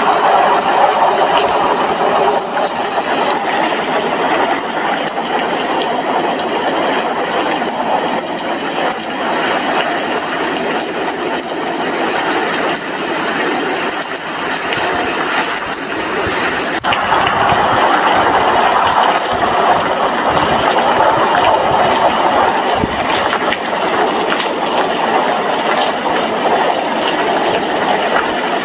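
Steady, dense rain falling, heard at an apartment window, a continuous patter of drops with a fine ticking crackle throughout.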